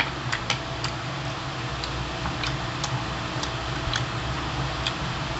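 Close-up chewing with wet mouth clicks and lip smacks coming at irregular intervals, over a steady low hum.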